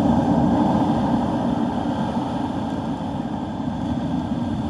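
Wind buffeting the microphone in a steady low rumble, mixed with surf.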